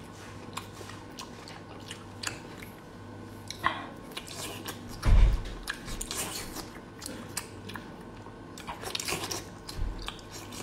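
Close-up mouth sounds of someone biting and chewing whole baby octopus in sauce, with many short wet clicks and smacks. A single heavy low thump about five seconds in is the loudest thing.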